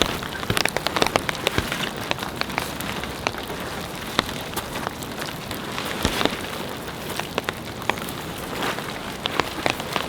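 Steady winter rain, with many heavy drops striking a hard surface in irregular sharp taps over a constant hiss.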